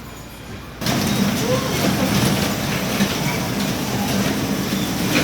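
Moving train running noise, a loud steady rumble with a low hum, which cuts in suddenly about a second in.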